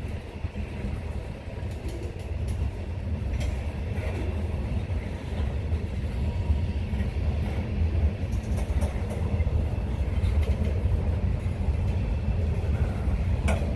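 Freight train rumbling past, growing louder over the first several seconds, with a few sharp clicks and knocks.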